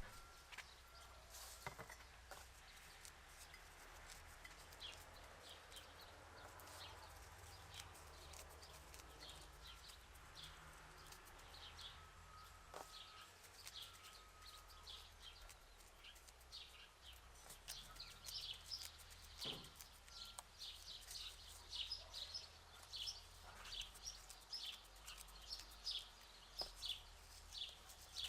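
Faint birds chirping: short, high notes repeated throughout and coming thicker in the second half, with a few soft clicks in between.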